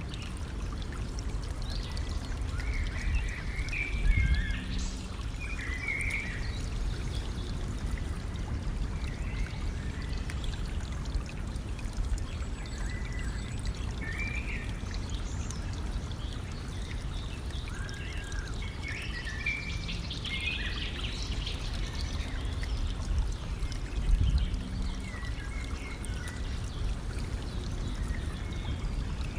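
Stream water running and trickling steadily, with birds chirping on and off above it. Two brief louder low surges come about four seconds in and again near the end.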